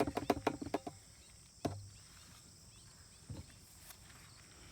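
A quick run of sharp taps and knocks in the first second, then two single knocks, as a plastic scoop and container are handled while electrolyte powder is measured out. Faint insect chirps go on underneath.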